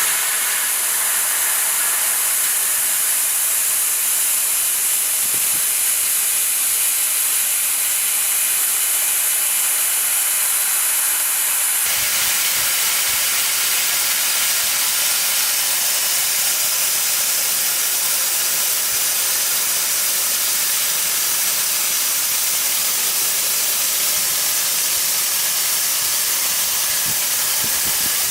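15000 W fiber laser cutter cutting metal sheet: a loud, steady hiss from the assist-gas jet at the cutting head. About twelve seconds in the hiss changes abruptly, losing its highest edge and becoming fuller.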